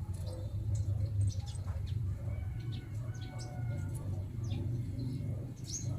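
Small birds chirping and calling in short notes and brief whistles, over a steady low rumble.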